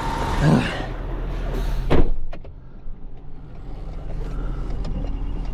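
A car door shutting with a single loud thump about two seconds in, over the steady low hum of an idling engine.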